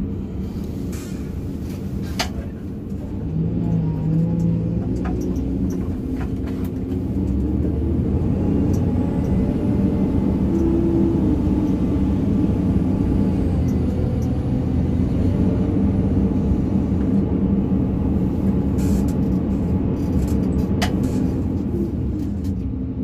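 Excavator's diesel engine running under load as it works, getting louder about three seconds in and again around seven seconds, with a few short sharp knocks.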